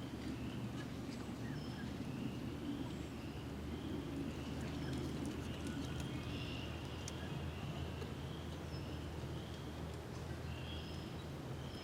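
Birds chirping and whistling in short, scattered notes over a steady low rumble of outdoor background noise.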